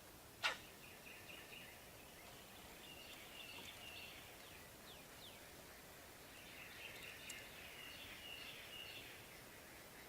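Faint birdsong outdoors: repeated short trilled phrases and a few quick falling chirps, with a single sharp click about half a second in.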